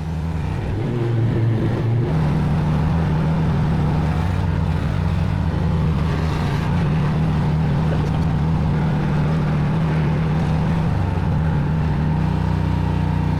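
Bad Boy zero-turn mower's engine coming up to speed in the first second, then running steadily; its note shifts slightly near the end.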